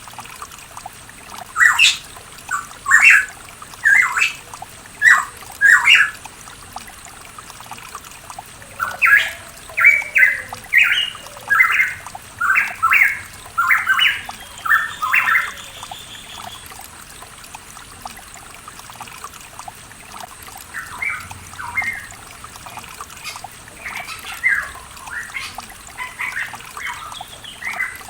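Pitohui calling in a series of short, loud notes: five or so spaced about a second apart, then a quicker run of about a dozen, then fainter notes near the end. A steady trickle of running water goes on underneath.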